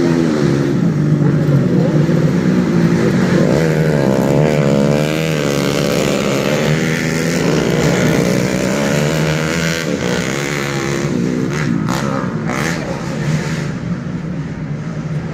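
Standard underbone ('bebek') motorcycles racing on a dirt grasstrack, several engines revving up and down as they pass.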